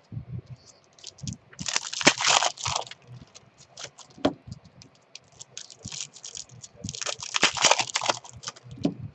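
Hands opening and handling Topps baseball card packs: foil wrappers crinkling in two longer bursts, about two seconds in and again about seven seconds in, with small clicks and taps of cards being handled in between.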